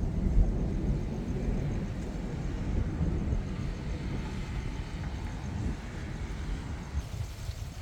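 Rolling thunder: a deep, long rumble, loudest at the start and slowly dying away over several seconds.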